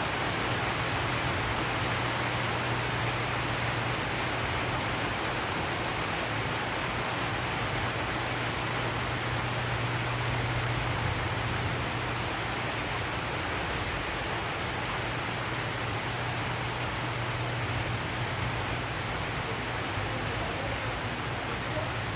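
Steady rain drumming on a zinc sheet roof: an even, unbroken hiss with a faint low hum underneath.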